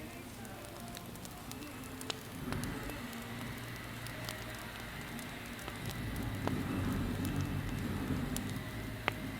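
Campfire burning, with sharp crackles and pops scattered over a low rumble of the flames that grows louder about six seconds in.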